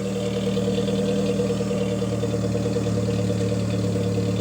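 Mitsubishi 4G64S4M 2.4-litre inline-four petrol engine idling steadily just after a cold start. The engine has been fully rebuilt and run in.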